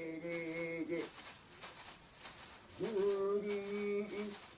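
A shaman's ritual chant: a male voice holding long, steady sung notes, one phrase ending about a second in and another starting about three seconds in. Under it runs a rhythmic rustling beat from a bundle of plants being beaten.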